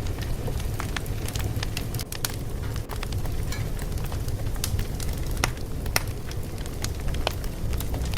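Fire crackling: scattered sharp pops and snaps, several a second, over a steady low rumble.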